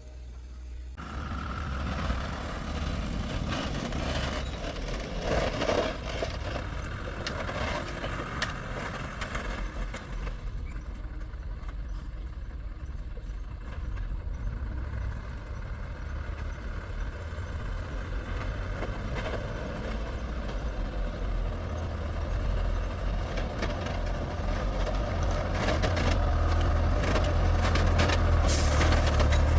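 A heavy vehicle's engine running with a steady low rumble that grows gradually louder toward the end.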